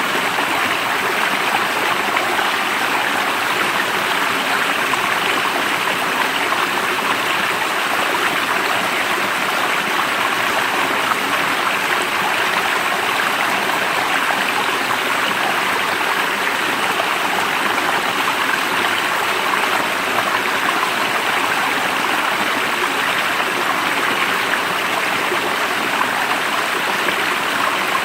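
Water of a stream flowing over rocks, a steady rushing and gurgling that holds even throughout.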